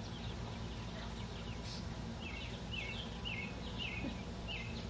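A bird calling: a run of five short, falling chirps about half a second apart, starting about two seconds in, over a steady low outdoor background noise.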